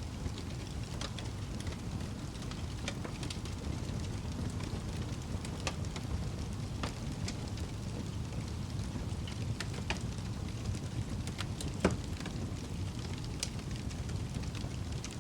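Wood fire burning in a fireplace: a steady low rumble of flames with scattered sharp crackles and pops from the burning wood, one louder pop about three-quarters of the way through.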